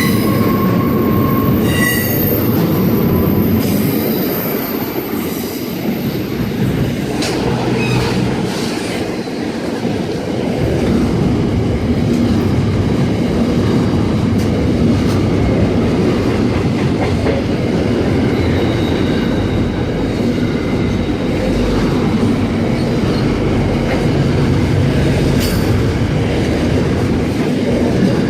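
Freight train wagons rolling past on the rails, a steady rumble with clicking over rail joints and a high wheel squeal in the first few seconds.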